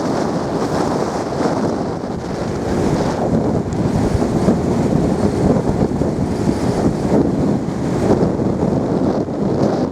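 Heavy wind buffeting the microphone on a speed boat under way, over the rush of water against the hull.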